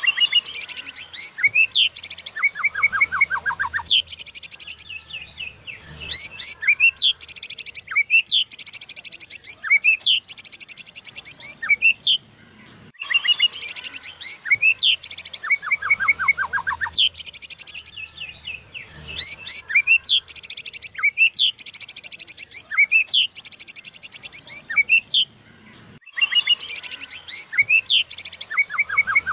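White-rumped shama (murai batu, Medan type) singing continuously in a loud, rich repertoire of rapid high trills, sharp upward and downward whistled sweeps and fast rattling note series, with brief lulls. This is the full-repertoire song ('full isian') that bird keepers prize, and the same sequence of phrases comes round again about every thirteen seconds.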